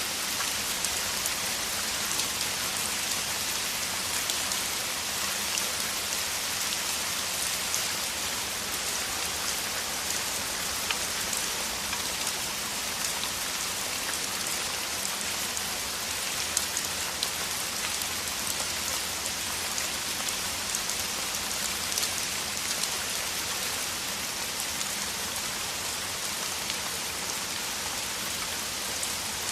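Heavy rain falling steadily, an even hiss of rain with many individual drops ticking on surfaces.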